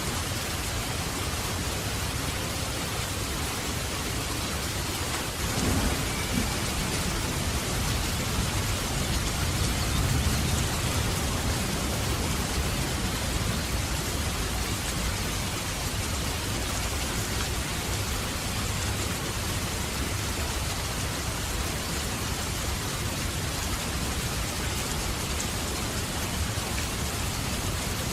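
Steady heavy rain falling, with a roll of thunder rumbling in about five seconds in and fading over several seconds.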